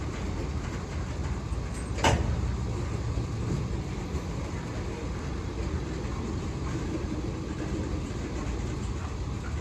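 Freight train of covered hopper cars rolling past, a steady low rumble of wheels on rail, with one sharp bang about two seconds in.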